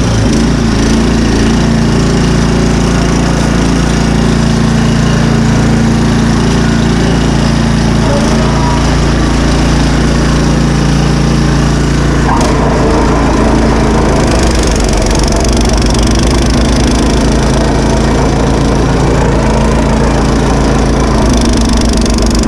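Honda HS928 snowblower's single-cylinder engine running steadily and loudly close by, its tone shifting slightly about halfway through.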